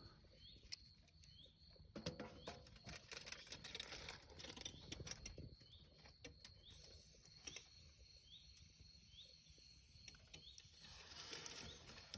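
Near silence with a bird giving the same short chirp over and over, about once a second, and a few faint scattered clicks.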